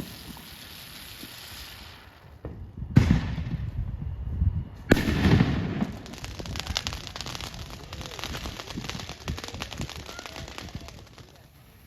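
Fireworks going off: two loud bangs about three and five seconds in, followed by a long run of many small crackling pops that fades away.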